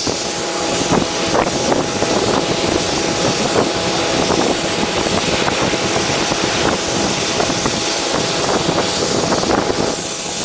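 Motorboat engine running at sea, a steady drone under heavy wind buffeting the microphone, with irregular knocks and gusts throughout.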